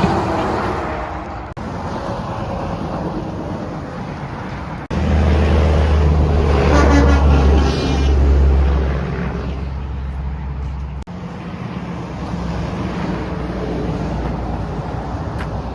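Road traffic with wind on the microphone. From about five seconds in, a semi truck goes by close with a deep, steady engine drone that swells and fades over some six seconds. The sound changes abruptly a few times where clips are joined.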